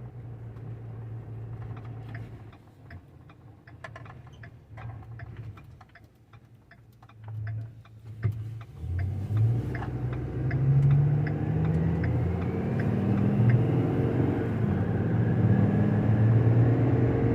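Truck engine running: it drops away while a run of sharp clicks ticks, then picks up again about halfway through and runs steadily louder with a faint rising whine.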